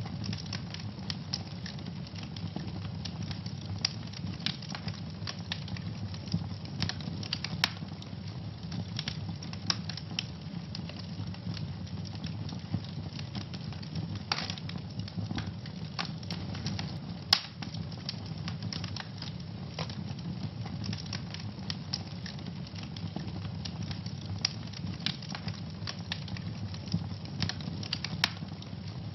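Wood fire burning in a fireplace, crackling and popping irregularly over a steady low rumble of flames, with a few sharper pops now and then.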